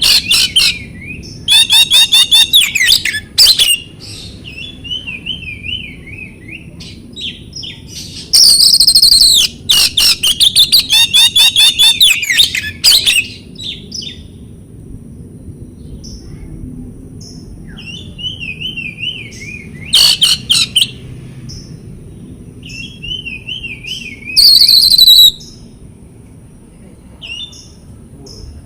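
Oriental magpie-robin (kacer) singing: loud, harsh chattering passages about two seconds in, from about eight to thirteen seconds, and twice more near the end, between softer quavering whistled phrases.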